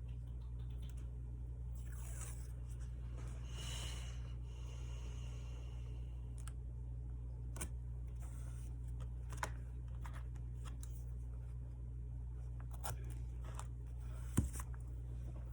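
Paper and tape being handled at a desk: a couple of soft scraping rustles about two and four seconds in, then scattered small clicks and taps, with a sharper tap near the end, all over a steady low hum.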